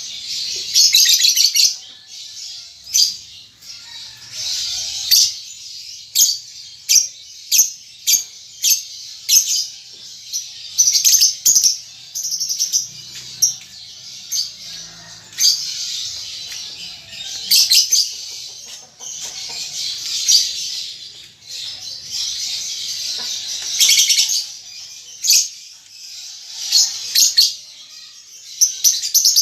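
A young lovebird practising its calls: high, shrill chattering in short bursts every second or two, packed with rapid clicking ticks.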